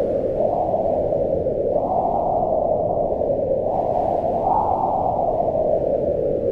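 Howling mountain wind: a steady, loud rush with a moaning pitch that rises and falls as it gusts, climbing at about two seconds and again past four seconds.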